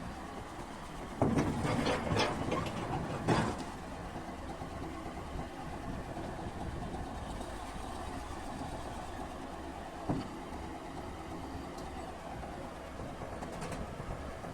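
Komatsu D6 bulldozer's diesel engine running steadily, with several loud metallic clanks in a cluster early in the stretch and one more clank near the end.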